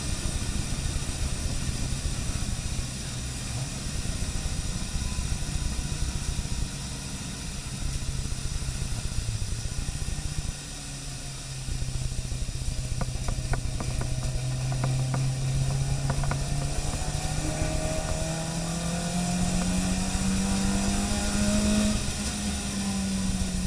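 Car engine running under steady throttle, heard inside the cabin, with the hiss of tyres on a wet track; the engine note climbs about two-thirds of the way through as the car accelerates, then eases off near the end.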